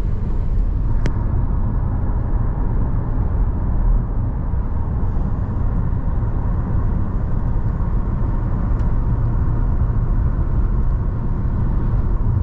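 Steady low rumble of a car driving along: road and engine noise with no change in speed. There is one sharp click about a second in.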